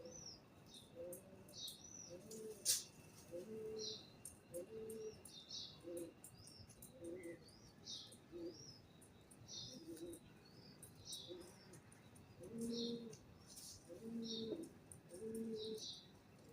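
Birds calling: short, high chirps repeating about once or twice a second over low, repeated cooing, typical of pigeons or doves. A single sharp click about three seconds in.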